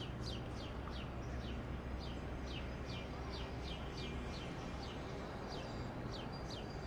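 A small bird calling in a rapid, even series of short down-slurred chirps, about three a second, over the low steady rumble of city traffic.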